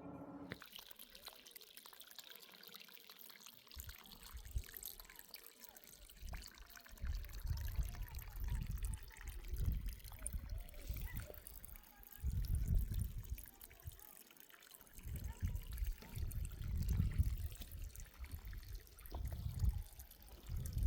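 Irrigation water trickling and flowing as a steady hiss, with repeated low rumbles coming and going from about four seconds in.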